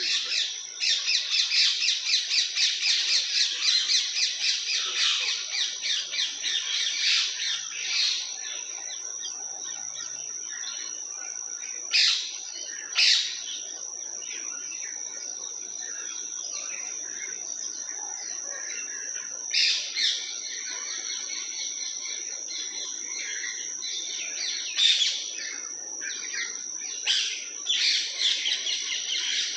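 Birds chirping: a dense run of rapid high chirps over the first seven or eight seconds, then scattered single sharp calls, over a steady high-pitched whine.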